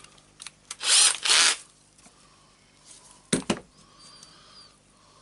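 Small electric screwdriver running in two short bursts about a second in, backing out a Torx 10 screw, followed by a couple of sharp clicks a little after three seconds.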